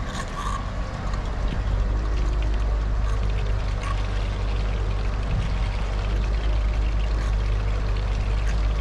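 Fuel pouring steadily into a truck's tank, over a steady low hum.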